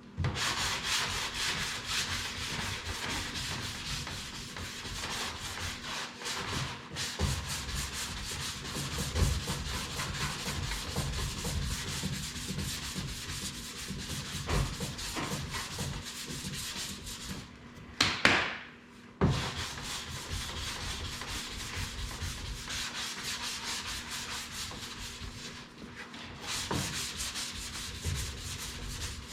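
Hand sanding block rubbing down body filler on a car body panel, continuous back-and-forth sanding with a brief pause a little past the middle.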